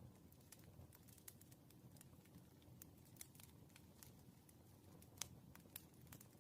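Wood fire crackling faintly: irregular sharp pops and snaps over a low, soft rumble, with one louder pop about five seconds in.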